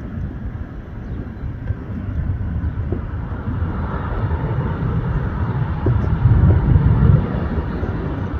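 Jet airliner's engines rumbling as it passes during approach. The sound builds from about halfway through and is loudest near the end.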